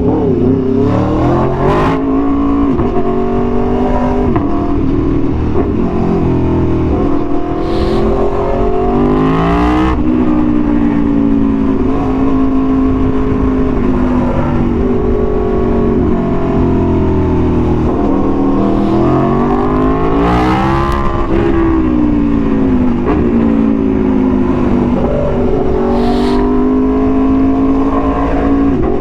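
Aprilia Tuono V4 1100's V4 engine through an SC-Project exhaust, repeatedly accelerating and easing off while riding. Its pitch climbs and falls through the gears, over a rush of wind noise.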